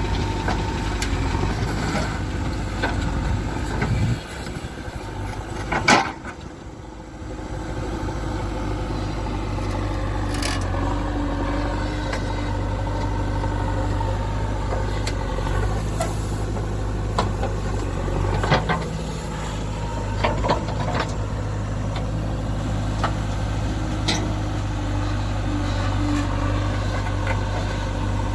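Diesel engine of a JCB 3DX backhoe loader running steadily, with scattered knocks and clanks of the machine at work. A loud bang comes about six seconds in, after which the engine sound dips for a couple of seconds.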